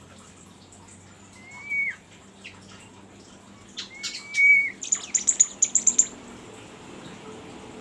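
Songbird calling: two short whistled notes a couple of seconds apart, each holding its pitch then dropping at the end, followed by a quick run of about eight high, thin notes.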